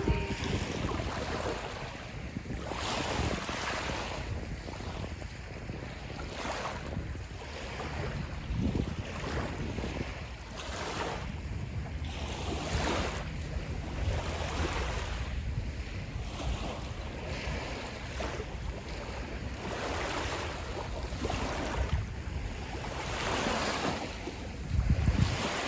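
Sea waves washing onto the beach in a steady noise of surf, with wind rumbling on the microphone and a louder gust near the end.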